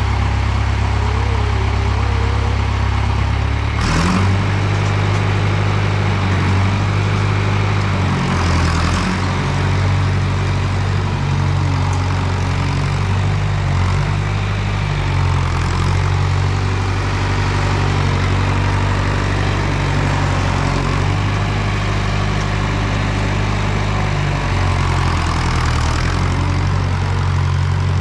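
John Deere 2510 tractor engine running, its low note shifting now and then, with a sharp knock about four seconds in.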